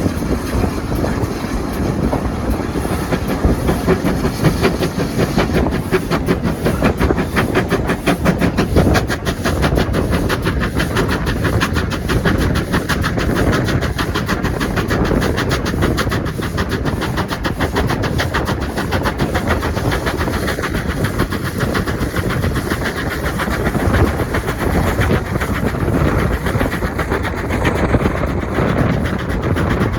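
Train running along the track with a rapid, even clatter that runs on steadily.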